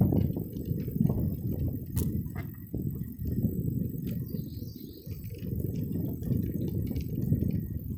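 Low, gusting rumble of wind and road noise while riding a bicycle, with birds chirping faintly about halfway through.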